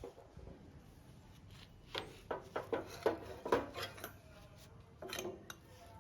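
Metal parts and hand tools being handled on a work surface: a cluster of sharp clinks and knocks about two seconds in, then another brief cluster near the end.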